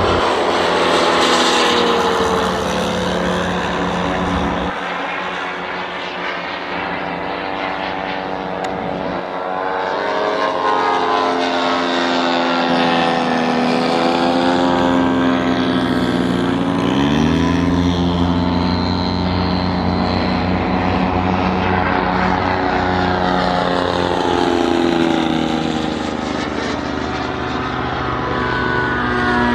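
Moki radial engine of a radio-controlled scale Corsair running with its propeller, its pitch sliding up and down several times.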